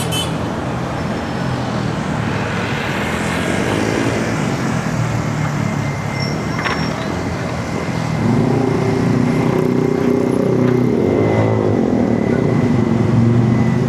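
Road traffic around a bicycle: motor vehicle engines and tyre noise run steadily. A nearby engine gets louder about eight seconds in, with a short click a little before it.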